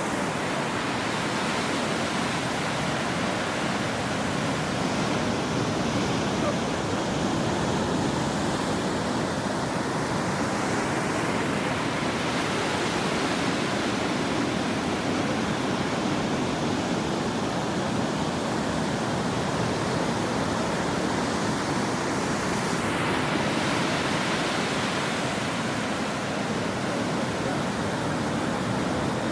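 Ocean waves breaking and washing up a shore: a continuous rush of surf, with the hiss of a wave swelling about halfway through and again near the end.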